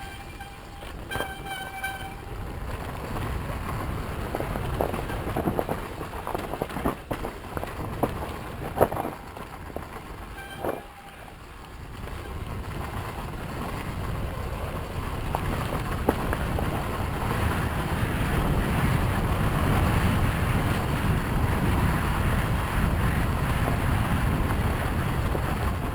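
Yamaha YZ250FX dirt bike's 250 cc four-stroke single running on a trail, heavily mixed with wind noise on the microphone. There are a few sharp knocks midway, and it grows steadily louder in the second half.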